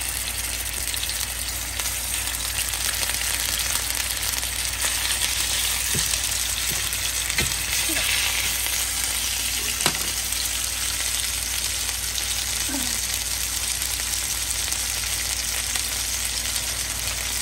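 Chicken breast medallions frying in hot olive oil in a cast iron skillet: a steady sizzling hiss, with a few light knocks around the middle.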